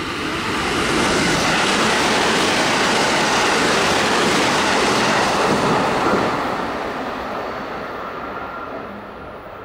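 A train passing close by at speed: a steady rush of wheel and rail noise that builds over the first second, holds for about five seconds, and then fades away.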